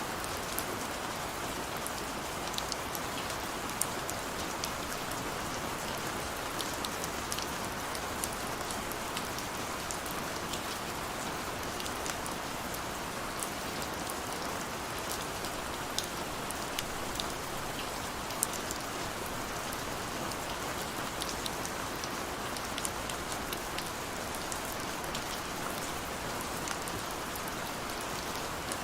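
Steady rain falling, an even hiss with many small drops ticking and pattering against a surface throughout.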